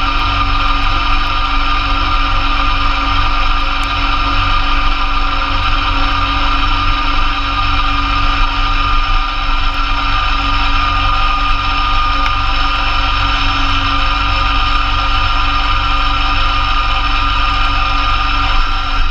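2004 Massey Ferguson GC2300 tractor's diesel engine running steadily while it drives a PTO-powered Blizzard B48 snowblower, with a constant mechanical whine over the engine's drone.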